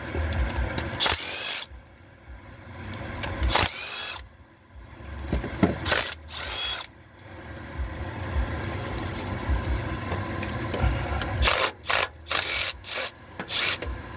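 Cordless power tool spinning in short bursts to back out timing cover bolts, its whine rising and falling with each spin, then a quick run of short trigger blips near the end.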